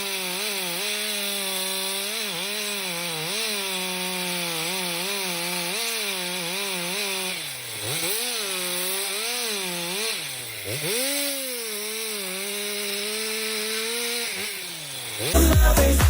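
Chainsaw running at high revs while cutting into a tree, its engine note wavering under load. The revs drop sharply and climb back twice. Near the end, loud dance music cuts in abruptly.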